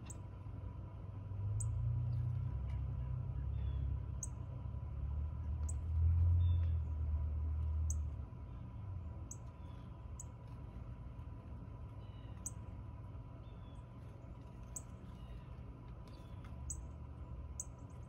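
A bird giving short, sharp, high chip notes, one every second or two. Beneath them runs a low rumble, loudest in the first eight seconds.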